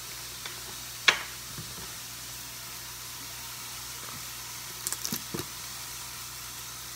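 Steady sizzling hiss of pork cutlets frying in a pan. A single sharp knock about a second in, and a few quick light clicks around five seconds in.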